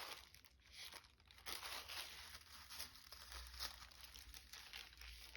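Faint rustling and crinkling of tissue paper being handled and sorted.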